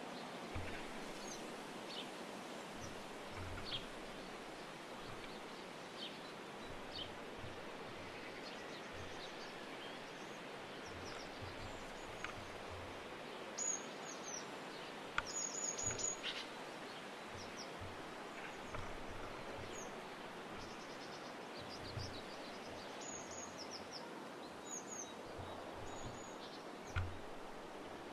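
Steady outdoor background noise with scattered short bird chirps and calls from small wild birds at a garden feeder. Clusters of high calls come about halfway through and again near the end, with a few soft low bumps in between.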